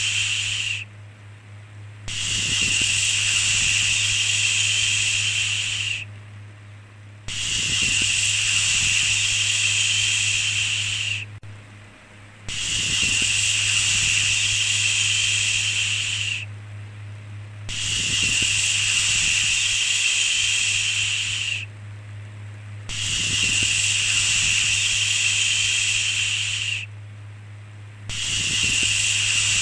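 A long "shhh" shushing sound, each one about four seconds, repeating with about a second's pause between them, over a steady low hum.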